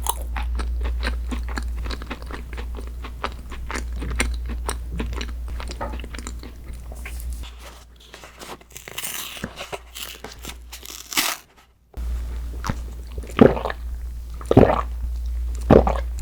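Close-miked eating of a crunchy dessert: dense, fast crackling crunches as it is chewed, turning softer later on. After a short break, several louder separate bites and chews follow.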